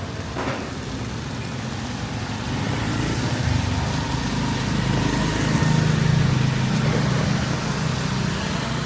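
A motor vehicle's engine rumble that builds from about three seconds in, is loudest a little past the middle, then eases off, over a steady hiss.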